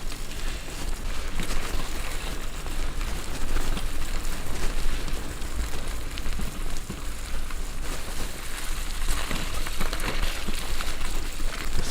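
Riding noise from a bicycle on a rough off-road track: steady crackle of tyres over gravel and stones, with low wind rumble on the microphone.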